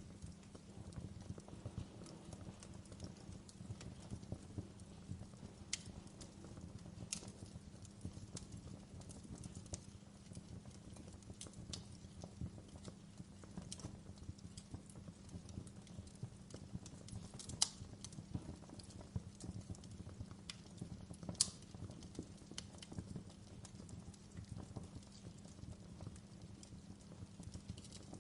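Wood fire crackling in a fireplace: a steady low crackle with sharp pops every few seconds, two of them louder in the second half.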